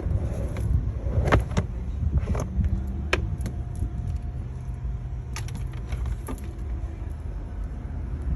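A vehicle running steadily at a low rumble, with scattered sharp clicks and light knocks throughout.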